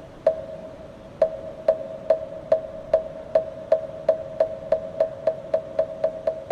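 A moktak, the Buddhist wooden-fish block, is struck with a mallet. Each strike gives a short hollow ringing tone. The strikes speed up steadily from about one a second to about four a second, the accelerating roll used in temple chanting.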